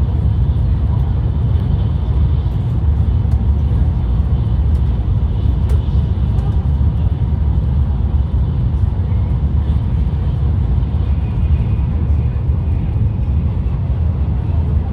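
Steady low rumble of a Shinkansen bullet train heard from inside the passenger car while it runs along the line.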